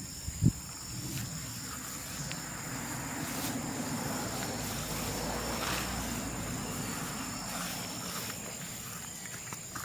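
Bamboo bonfire burning, with scattered sharp crackles and a single low thump about half a second in, over a steady high insect drone.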